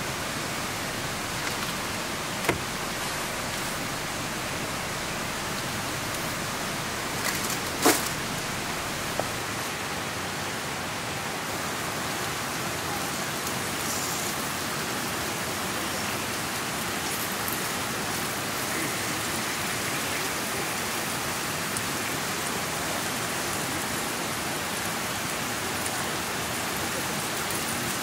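Steady rain falling, with a few sharp knocks, the loudest about eight seconds in.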